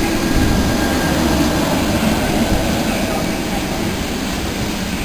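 Passenger train's coaches rolling past close by: a steady rumble and rush of wheels on rail that eases slightly toward the end.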